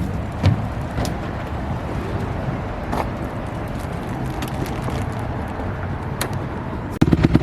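Steady low vehicle rumble with a few sharp clicks and knocks. Near the end it switches abruptly to a louder dirt bike engine running with a fast, even putter.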